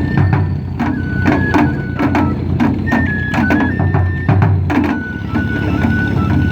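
Japanese festival hayashi music: a bamboo flute playing a melody of a few held, stepping notes over frequent sharp drum strikes.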